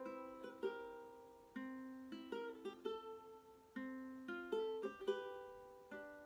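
A ukulele patched with gaff tape plays an instrumental passage between sung lines, picking out chords note by note, each note ringing and fading.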